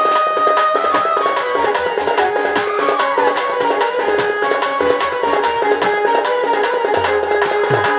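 Instrumental accompaniment music for a Sambalpuri danda dance-drama: a melody of held notes over fast, steady drumming.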